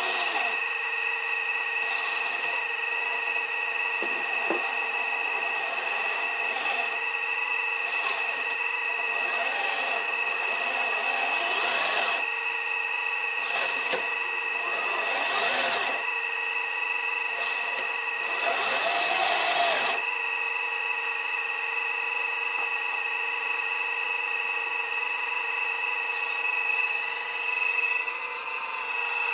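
Excavator working while loading trucks: a steady high-pitched machine whine runs throughout, with louder rushes of working noise about ten, fifteen and nineteen seconds in.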